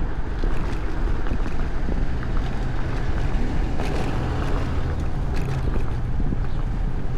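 Wind buffeting an action camera's microphone on a moving electric scooter, with steady low rumble and scattered light rattles and clicks.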